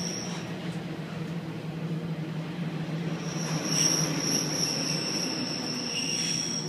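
Inside a Class 142 Pacer railbus on the move: the diesel engine drones steadily under the carriage's running noise. A high-pitched steady wheel squeal dies away just after the start and returns about three and a half seconds in, loudest around four seconds.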